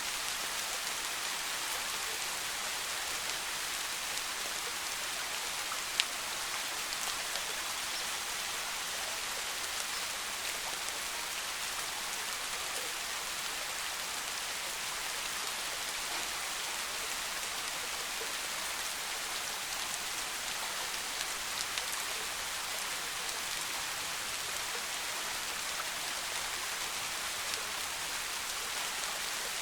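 Steady rain falling on forest foliage, an even hiss with scattered individual drops ticking, one sharper drop about six seconds in.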